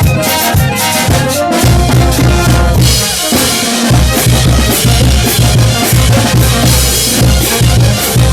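Brass band playing loudly: sustained brass notes end about a second and a half in, then the drums and bass drum carry a steady beat, with a cymbal crash about three seconds in.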